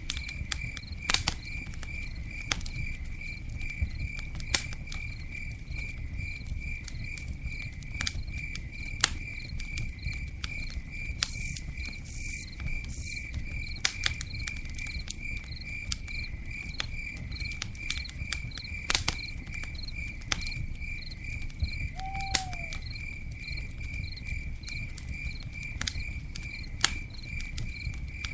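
Campfire crackling, with scattered sharp pops over a low steady rumble, while a cricket chirps evenly about three times a second. A single short falling call sounds once, a little past two-thirds of the way through.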